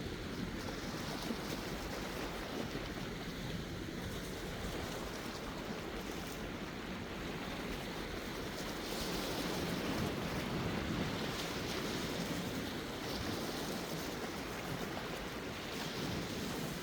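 Sea surf washing in, a continuous rushing of waves that swells louder about nine seconds in and again near the end.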